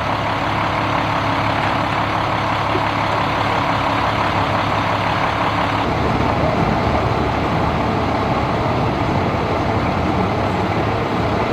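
A heavy truck engine runs steadily, with a low hum. Its note shifts slightly about six seconds in.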